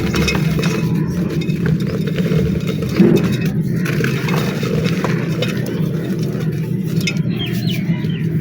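Dry black clay mud being crushed and crumbled: a dense, continuous crunching and crackling of small pieces breaking, over a steady low rumble.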